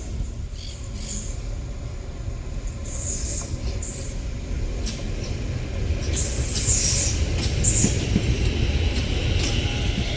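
CSR electric multiple-unit train running on the rails with a steady low rumble, and high-pitched screeching bursts about three seconds in and again from about six to eight seconds.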